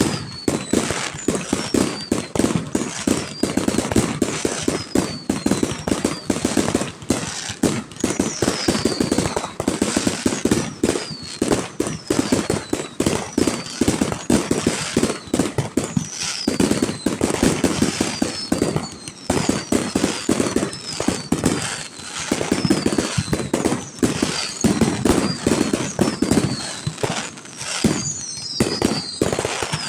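Fireworks display: a dense, unbroken run of bangs and crackling, with high whistles that fall in pitch heard over it again and again.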